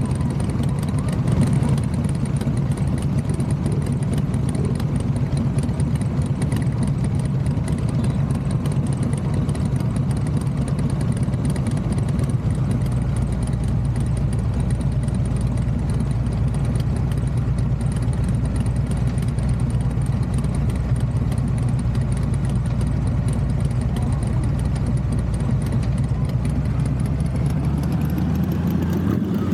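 Motorcycle engine running steadily, its pitch rising near the end.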